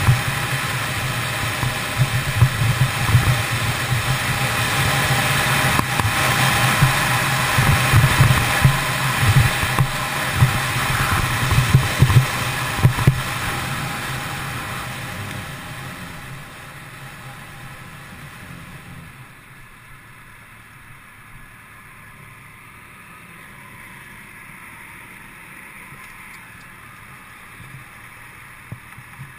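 Kawasaki ZX10R sport bike's inline-four engine running under way, with a pulsing low exhaust note and wind rush on the microphone. Over several seconds from about halfway in, the sound falls away as the bike slows and stops, leaving a much quieter steady idle.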